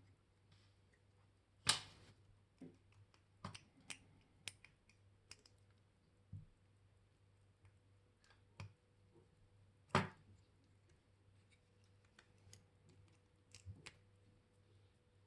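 Small metal clicks and taps of watchmaking hand tools on watch parts at a bench: two sharper clicks, about two seconds in and near ten seconds, with about a dozen lighter ticks between and after.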